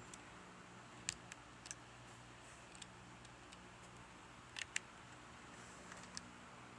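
A few faint, sharp clicks and ticks, irregularly spaced, the loudest about a second in and a close pair a little past the middle, over a low steady hum.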